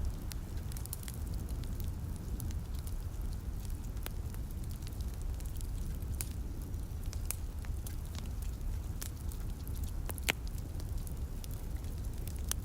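Wood fire crackling in a fireplace: irregular sharp pops and snaps over a steady low rumble, with the sharpest pop about ten seconds in.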